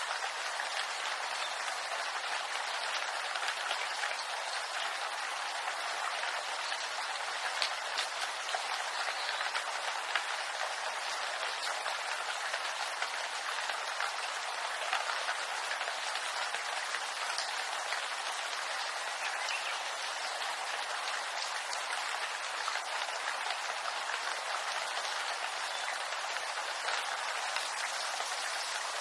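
Steady rain falling on a bamboo grove, a dense even patter of drops on the leaves with scattered sharper drop ticks.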